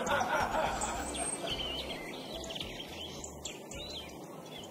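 Birds chirping in short, wavering high calls over a low, uneven rumble of outdoor background noise.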